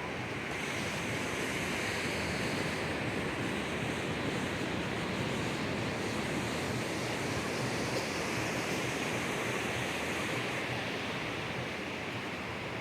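Ocean surf washing steadily onto the beach, a continuous rush that swells slightly through the middle, with some wind on the microphone.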